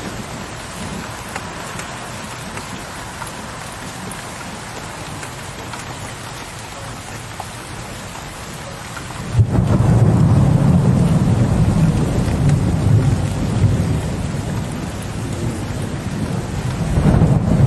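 Steady rain falling. About nine seconds in, a deep rumble of thunder starts suddenly and rolls on, easing slightly and then swelling again near the end.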